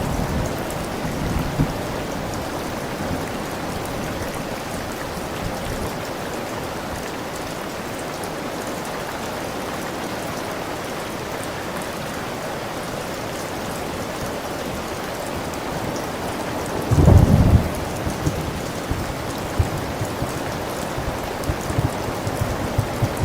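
Steady rain falling during a thunderstorm, with low rumbles of thunder near the start and one short, loud peal of thunder about seventeen seconds in, followed by scattered low rumbling.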